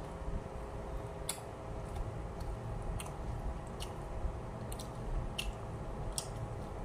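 Mouth sounds of a person eating: chewing with scattered short, sharp clicks from the mouth and food, over a steady background hum.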